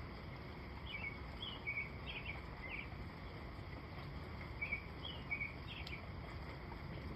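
Steady outdoor rain-and-wind noise with short, high bird chirps coming in two brief runs, one about a second in and another about two-thirds through.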